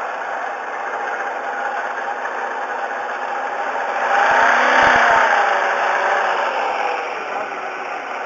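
1999 Volvo S80's 2.9-litre straight-six engine running, then revved once about four seconds in, its pitch rising and falling back to a steady run.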